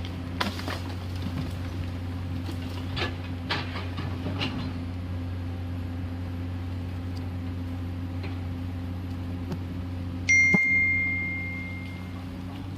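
Komatsu PC210LC excavator's diesel engine running with a steady low drone, with a few light clicks and knocks. About ten seconds in, a single sharp, high ringing ding sounds and fades over about two seconds.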